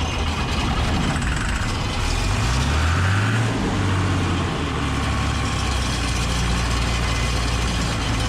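John Deere 955 combine harvester's diesel engine firing on Aerostart after its fuel filter was primed, its pitch rising for a couple of seconds before settling into a steady run.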